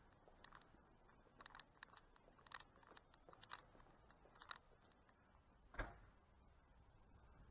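Near silence with faint footsteps on a station platform, about one step a second, and a single dull thump near the end.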